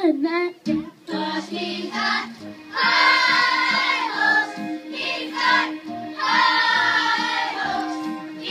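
Voices singing together over instrumental backing, holding two long notes.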